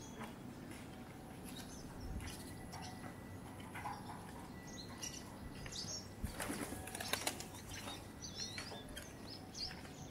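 Birds chirping, with wings flapping in a quick flurry about six to seven seconds in.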